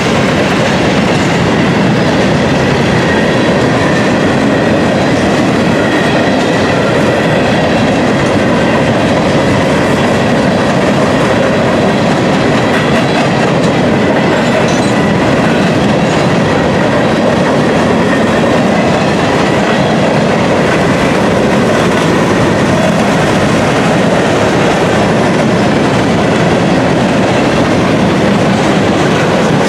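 Freight train of gondola cars rolling past, steel wheels on the rails giving a steady loud rumble with clickety-clack over the rail joints.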